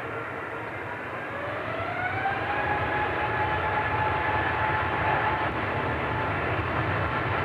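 Airbus A350's Rolls-Royce Trent XWB engines spooling up for takeoff: a whine that rises in pitch about a second in and levels off, over a steady jet rumble that grows louder.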